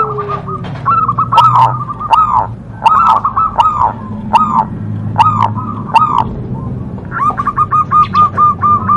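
Zebra dove (perkutut) singing: a series of arched cooing notes, then from about seven seconds in a quicker run of short clipped notes, several a second. Short sharp high chirps sound over the top.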